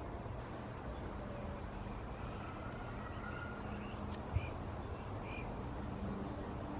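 Outdoor background noise with a steady low hum, a few faint short high chirps, and a single sharp click a little past the middle.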